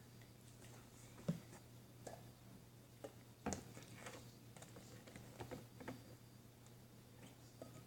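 Faint, irregular clicks and taps of small objects being handled, the two loudest about a second and three and a half seconds in, over a low steady hum.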